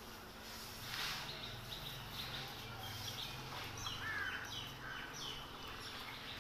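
Birds calling with scattered short chirps, a couple of them gliding in pitch about four seconds in, over a faint steady low hum.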